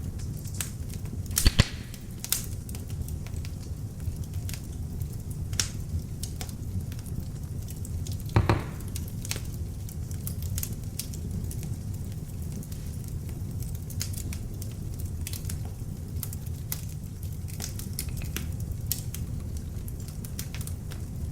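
Beech-wood log fire in an open fireplace burning with a steady low rumble of flames and frequent small crackles. Two louder pops stand out, one about a second and a half in and one about eight seconds in.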